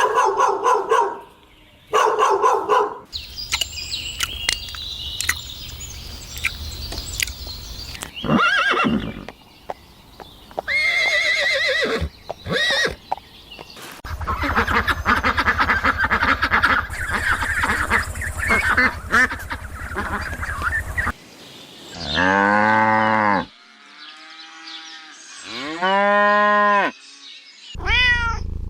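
A run of different farm animal calls, one clip after another, each cutting off abruptly. They include short high chirping calls and, near the end, two long calls that rise and fall in pitch, which may be cattle mooing.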